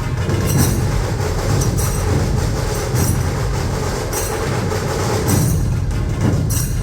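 Dhol-tasha ensemble drumming: massed dhol drums beating a dense, heavy rhythm under the rattle of tasha drums, with a bright cymbal-like clash roughly every second.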